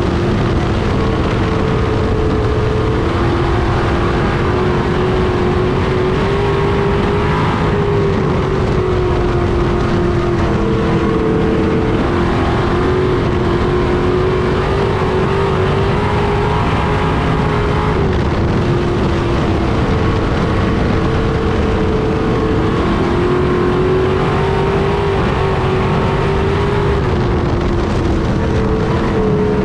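Street stock race cars running at racing speed on a dirt oval, engine pitch stepping up and dropping back every few seconds as the throttle comes on and off through the laps.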